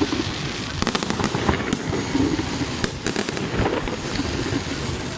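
Fireworks display: shells bursting in a rapid, irregular series of sharp bangs and crackles, some in quick clusters, over a continuous rumble and fizz.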